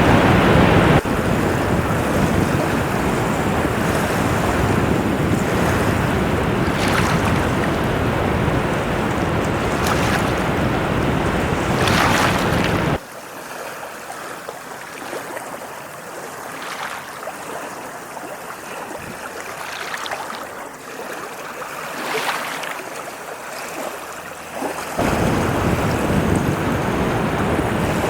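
Ocean surf washing onto a shore: a steady hiss of water with the swell of a breaking wave every few seconds. The sound cuts abruptly to a quieter, thinner stretch about 13 s in and back to the fuller surf about 25 s in.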